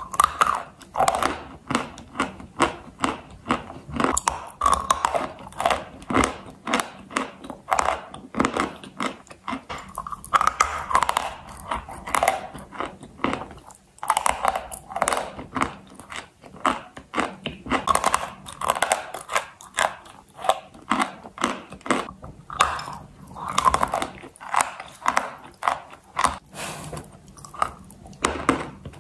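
Close-up biting and chewing of dry, crispy white chalk: a steady run of crisp crunches, several a second.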